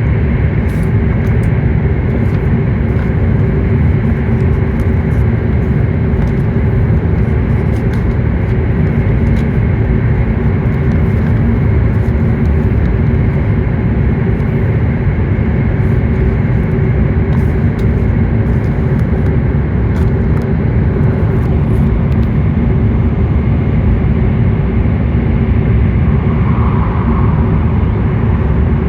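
Cabin running noise of a W7 series Shinkansen train at speed, heard from inside a passenger car: a steady, loud rumble with a faint hum running through it. Light high ticks come and go through the first two-thirds.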